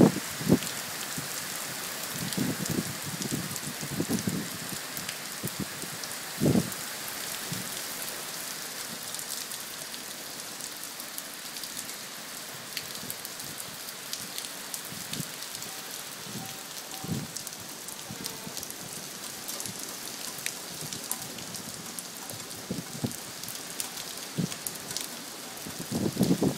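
Heavy rain falling steadily on the street and pavement, with a few brief low thumps on the microphone, the loudest about six seconds in and near the end.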